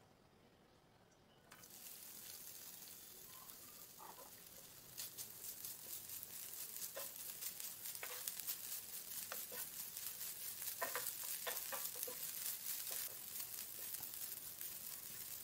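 Grated coconut sizzling and crackling as it roasts in ghee in a nonstick pan, stirred with a wooden spatula that scrapes and clicks against the pan now and then. The sizzle starts suddenly about a second and a half in and grows busier with crackles from about five seconds.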